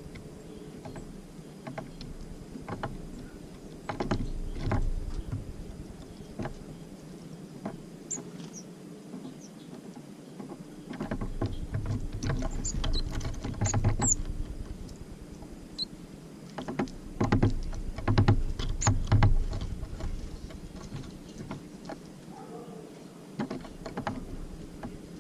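Tits at a bird feeder: irregular knocks and taps as they land and peck at the feeder, busiest in the middle, with a few short high chirps.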